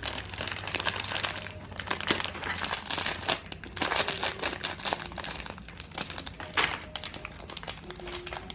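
Plastic snack wrappers crinkling and crackling in irregular bursts as small snack packets are handled and opened.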